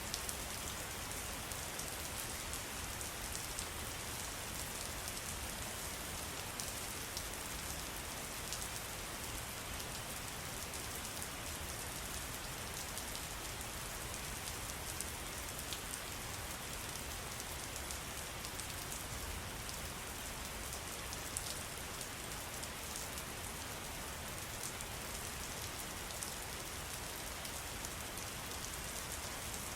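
Steady pattering and trickling of water: an unbroken hiss dotted with many fine drop-like ticks, unchanging throughout.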